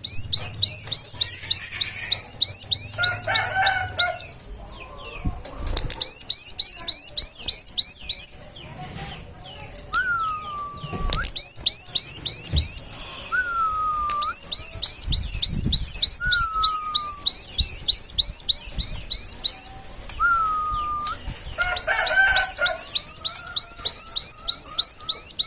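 Songbird song, a bird-song recording used to train cage birds: long rapid trills of high, sweeping notes, about four a second, in bursts of several seconds. Between the bursts come short lower whistles that fall in pitch, and brief chattering.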